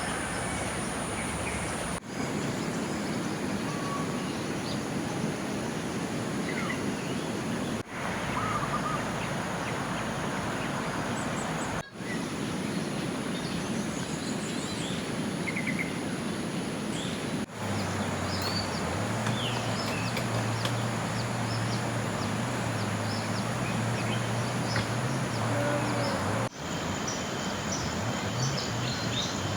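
Steady rush of water, with scattered bird chirps and a thin, constant high-pitched insect whine over it. Over the last third a low droning hum joins, stepping up and down in pitch, and the sound dips briefly several times.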